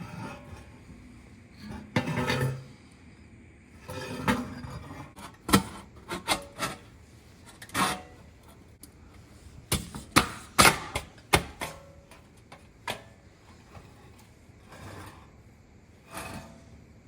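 Irregular knocks, clicks and short scrapes of hard objects being handled and set down, with a cluster of sharp knocks a little past the middle.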